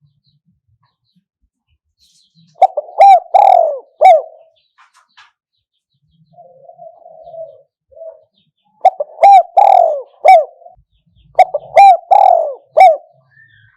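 Spotted dove cooing: three phrases of several quick coos each, with a faint low murmur between the first two. This is a decoy call meant to draw wild doves in.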